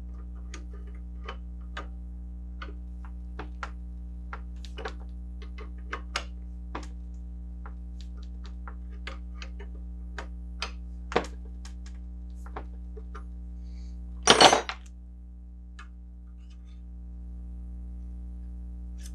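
Small metallic clicks and clinks, roughly one or two a second, of hand tools working the packing nut on a Crosley water pump as the nut is tightened down on new packing. One louder metal clatter about two-thirds of the way through.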